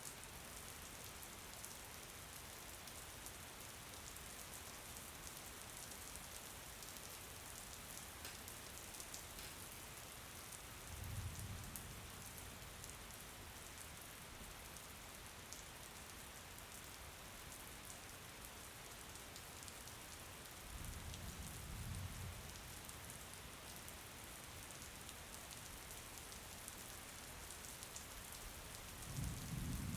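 Steady rain falling, an even hiss, broken by three brief low rumbles: about a third of the way in, about two-thirds of the way in, and near the end.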